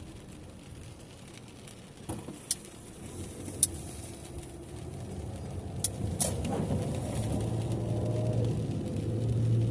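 Car driving in the rain, heard from inside the cabin: a steady rumble of road and engine that grows louder from about halfway through, with several sharp ticks in the middle.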